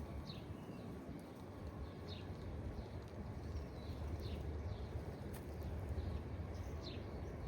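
A bird calling outdoors with short, falling chirps repeated every second or two, over a steady low rumble.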